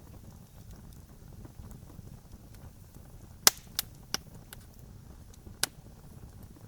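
Wood campfire crackling: a few sharp pops, the loudest about halfway through and three more close behind it, over a low steady rumble.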